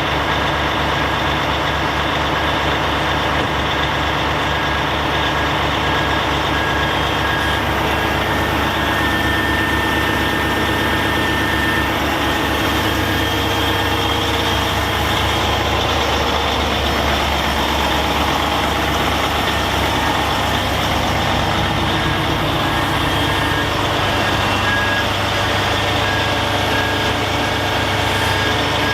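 Kenworth T880 hook truck's diesel engine running steadily, its low hum growing fuller about twelve seconds in, with a high beep sounding on and off.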